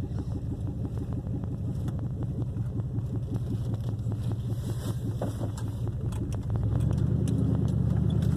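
Truck engine running steadily, getting louder about six and a half seconds in as it picks up revs.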